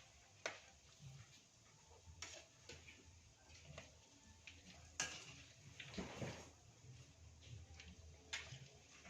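Faint, scattered clinks and knocks of a cooking utensil against a frying pan as fried tempe is lifted out of the oil, about five separate knocks over a low steady hum.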